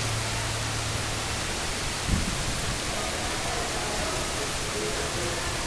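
Heavy rain pouring down in a steady, even hiss, with one short thump about two seconds in.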